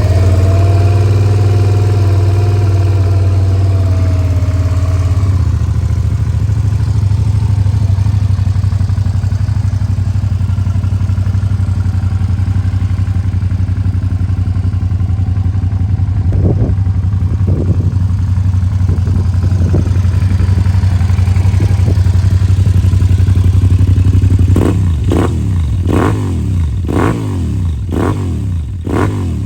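Suzuki SV650S's liquid-cooled, fuel-injected four-stroke V-twin running through a Leo Vince aftermarket exhaust just after start-up. Its idle settles down over the first few seconds and then holds steady. There are two short throttle blips midway and a run of about six quick revs near the end.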